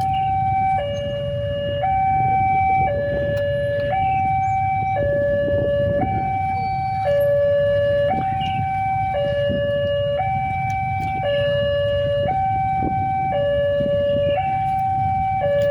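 Two-tone electronic alarm sounding a steady high-low pattern, each tone held about a second, over a low rumble.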